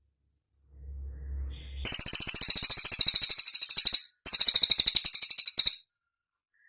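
Cililin bird singing a rapid, high-pitched buzzing trill in two bursts, the second shorter after a brief break. It is preceded by a faint low rumble.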